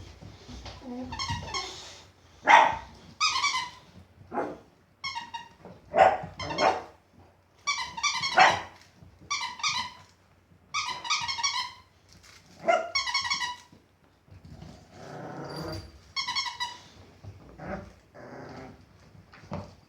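A squeaky toy squeaks over and over, roughly once a second, while Boxer puppies chew on it. Short puppy growls and barks come in between the squeaks.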